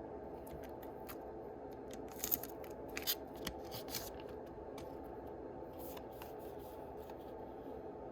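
Handling of Yu-Gi-Oh trading cards and their foil booster pack wrappers: scattered clicks, with a cluster of crisp crackles between about two and four seconds in. A steady low hum runs underneath.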